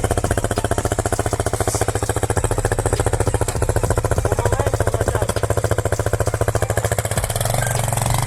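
Loncin Pruss 200's single-cylinder engine running at low revs with an even, rapid exhaust beat as the motorcycle pulls away on snow, rising in revs near the end.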